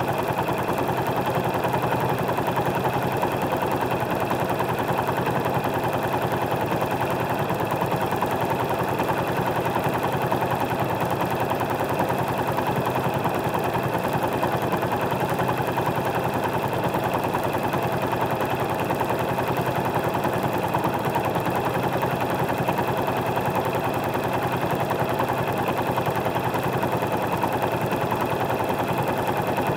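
Motorcycle engine idling at a standstill, a steady rapid run of exhaust pulses, picked up by a microphone mounted under the seat.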